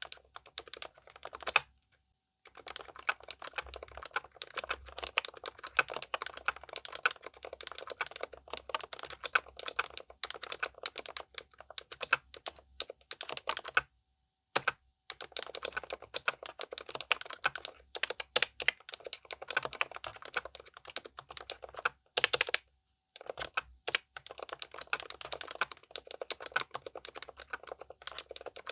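Continuous fast typing on a Keychron K10 Pro SE full-size mechanical keyboard fitted with pre-lubed Keychron K Pro silent red linear switches, giving soft, muted keystrokes. The typing pauses briefly a few times.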